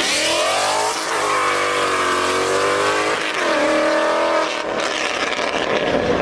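A car engine revving hard at high rpm, its pitch dipping and climbing back a few times, over a steady hiss of tyre noise.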